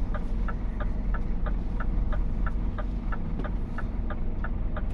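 Scania truck's turn-signal indicator ticking in the cab, an even click about three times a second, over the low, steady rumble of the idling diesel engine.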